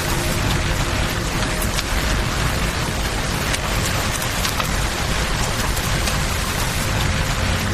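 Steady rain falling, an even hiss with scattered sharp ticks and pops throughout, layered with the crackle of a campfire and the flow of a river.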